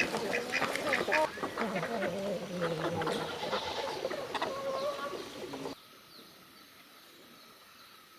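Farmyard poultry calling, with ducks quacking among repeated short calls. The calls stop abruptly a little under six seconds in, leaving only a faint hiss.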